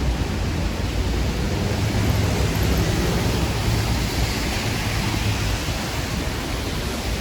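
Steady hiss of falling rain with a low rumble of city traffic underneath.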